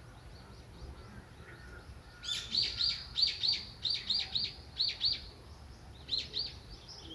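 A songbird singing a quick run of loud, high chirps, about three a second, starting about two seconds in. It pauses briefly and adds two more near the end, over fainter twittering from other birds and a low steady rumble.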